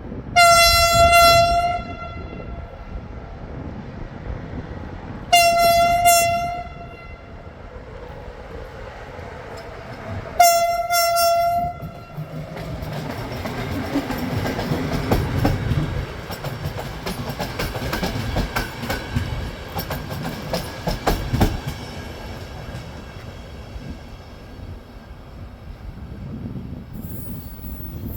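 Passenger train's locomotive horn sounding three loud single-note blasts, each about a second and a half long and about five seconds apart, as the train arrives. The locomotive and carriages then roll in with a rumble and a rapid clatter of wheels over the rail joints.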